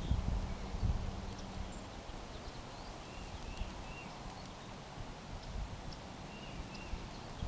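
Small backyard birds chirping: short high notes, in small clusters a few seconds apart. Low knocks and a rumble sound in the first couple of seconds.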